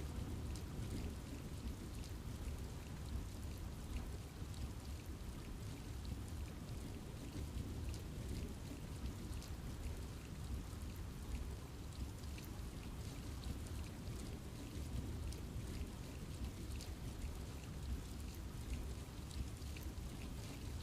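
Steady rain falling in a forest, with a constant low rumble under many scattered sharp drop ticks on leaves and surfaces.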